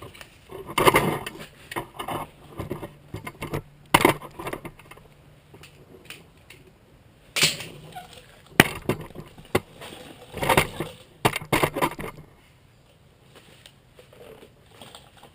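Metal clanks and knocks from sheet-metal bodywork: tools and a steel patch panel being handled and struck, in several irregular clusters of sharp hits.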